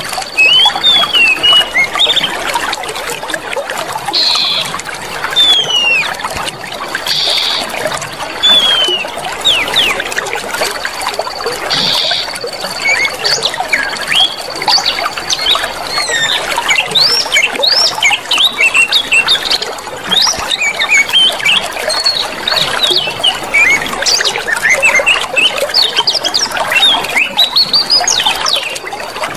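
Clear water running and trickling steadily, with many short high chirps of small birds over it and a thin, steady high buzz that swells every few seconds.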